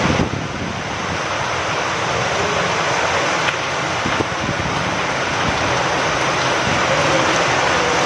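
Steady heavy rain falling with wind, an even rushing hiss, with a couple of sharp drop ticks near the middle.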